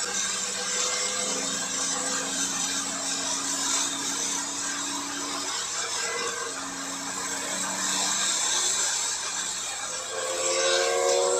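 Porsche 992 Carrera 4S twin-turbo flat-six running in third gear, heard from inside the cabin under a steady hiss of wet-track road and spray noise. About ten seconds in, the engine note rises as the car accelerates.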